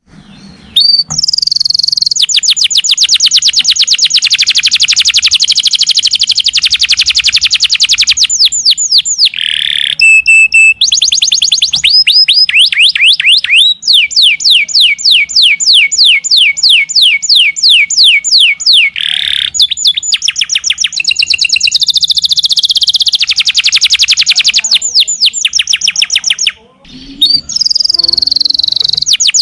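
Domestic canary singing long, rapid trills: runs of quickly repeated high notes held for several seconds at a time, changing phrase every few seconds, with a short break near the end.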